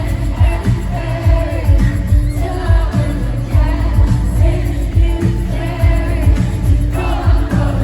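Live pop song played through an arena sound system: a sung vocal melody over a steady bass beat.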